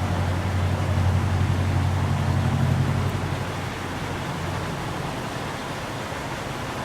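Road traffic: a passing vehicle's low rumble swells over the first three seconds and then fades, over a steady outdoor noise.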